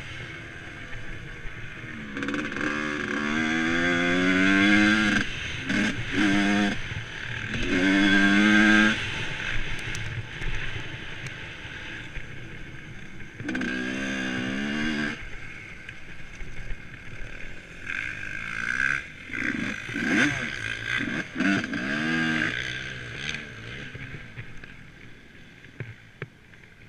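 A motorcycle engine revving up again and again, its pitch climbing over a second or more each time, about four times.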